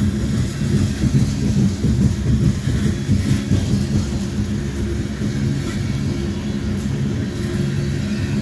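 Freight train cars rolling past at close range: a steady low rumble of steel wheels on the rails, with a few faint clicks.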